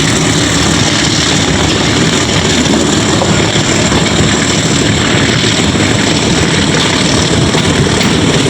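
Diesel locomotive hauling a passenger train, its engine chugging steadily under load, heard from the train along with the rumble of the moving coaches.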